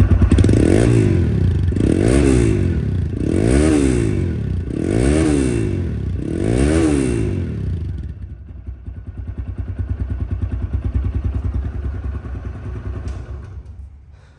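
TVS Raider 125's single-cylinder engine, just started, revved in five quick throttle blips about a second and a half apart. It then drops back to a steady idle about eight seconds in, growing quieter near the end.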